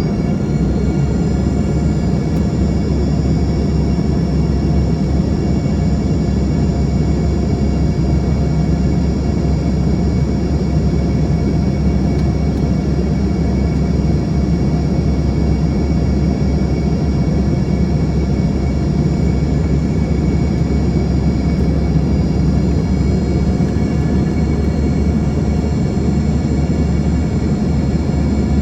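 Embraer ERJ-145 jet in flight, heard from the cabin: a steady, loud drone of its rear-mounted turbofan engines, with a deep rumble and thin high whine tones. The whine shifts slightly in pitch at the start, then holds steady.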